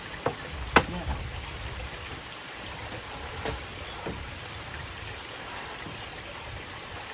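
Steady rain and running water, with a few sharp knocks, the loudest about a second in.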